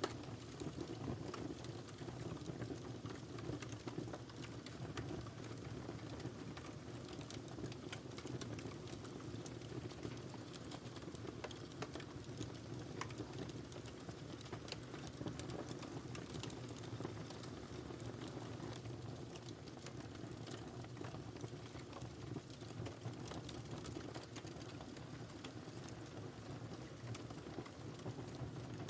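Wood fire burning in a fireplace: a steady low rush of flames with frequent small, irregular crackles and pops.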